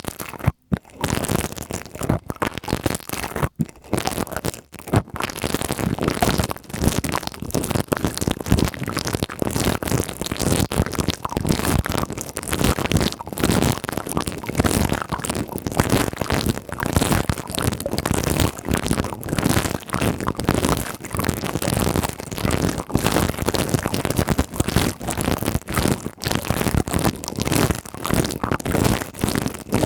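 Pipe cleaners rubbed and scratched against a microphone: a dense, continuous crackling scratch with a few brief pauses in the first five seconds.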